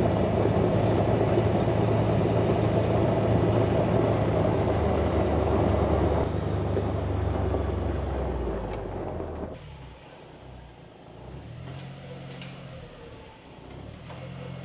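Tractor engine running steadily and loud. About nine and a half seconds in, the sound drops suddenly to a quieter, lower engine idle whose pitch wavers slightly.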